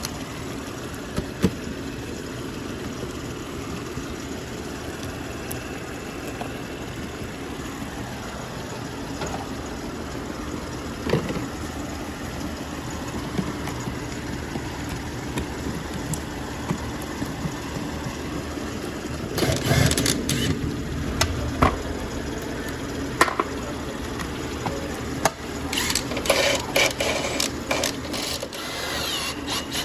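BMW B58 inline-six engine idling steadily, a low even hum, with scattered sharp clicks. From about two-thirds through, clicking and clattering of parts being handled get more frequent and louder.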